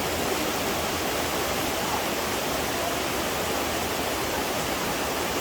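Steady rush of a fast-flowing stream with a strong current.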